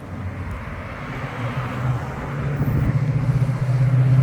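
An antique car's engine coming closer along the road, its low steady note growing louder and rising slightly in pitch over the last couple of seconds.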